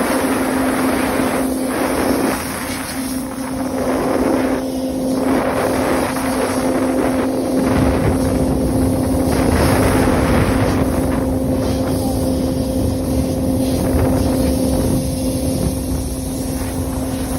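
Powerful cleaning vacuum running, a steady machine hum under a loud rush of air that swells and dips as high-pressure air and suction work the dust out of a furnace.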